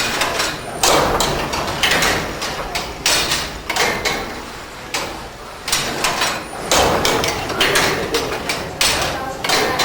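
Replica 1712 Newcomen atmospheric beam engine running, with a string of knocks and clatters from its working gear, roughly one burst a second.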